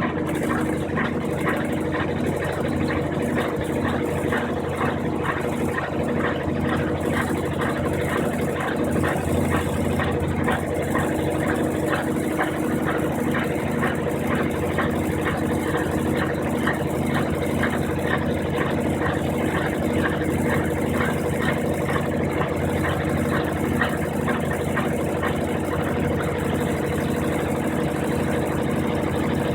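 Brastemp 15 kg washing machine running mid-cycle: a steady motor hum with a regular, rapid pulsing as the drum turns.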